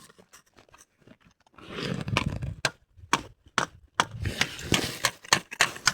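A discarded loudspeaker being wrenched apart by hand to get at its wires: a series of sharp plastic clicks and cracks, with two longer stretches of rough scraping, straining noise.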